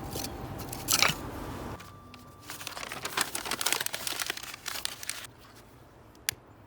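Crinkling, crunching handling noise in two stretches of a few seconds each, with one sharp click near the end.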